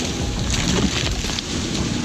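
Heavy machinery running under load, with a steady low rumble and scattered sharp knocks and cracks.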